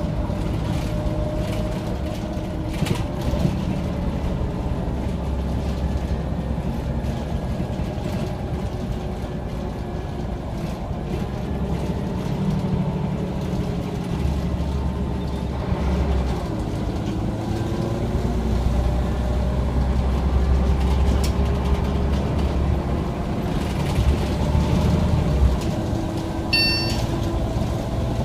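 Scania CN94UB OmniCity single-deck bus driving, its diesel engine running steadily with the engine note rising and falling as it speeds up and slows. A short electronic beep sounds near the end.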